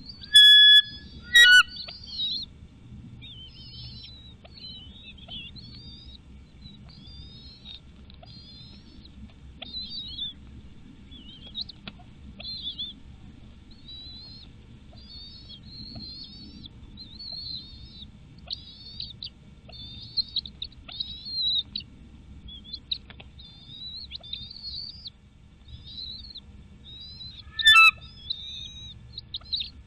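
Bald eagles calling at the nest: a steady run of high, squeaky chirps with three loud, piercing calls, two in the first two seconds and one near the end.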